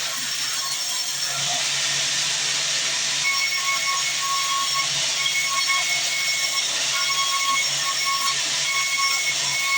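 Sawmill band saw running through wood: a steady hiss over a low hum, with an on-and-off high whine from about three seconds in.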